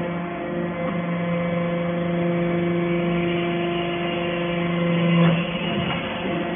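Hydraulic stainless-steel chip baler running: its motor and pump give a steady hum. The hum changes just after five seconds in, when part of it drops out.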